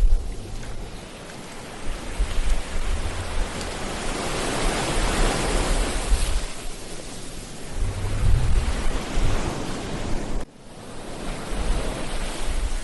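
Ocean surf breaking and washing on a beach, one wave swelling to its loudest about five seconds in, with wind rumbling on the microphone. The sound drops out suddenly and briefly about ten seconds in.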